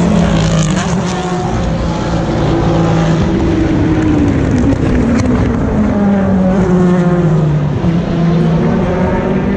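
Race cars' engines braking into a chicane and accelerating out. The engine note falls as they slow, then climbs in steps through the gear changes, loud and unbroken throughout.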